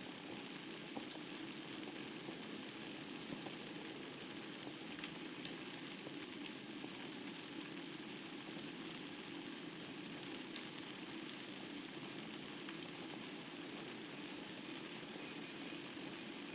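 Wood fire burning in a fireplace: a steady hiss of flames with scattered sharp crackles and pops from the burning logs.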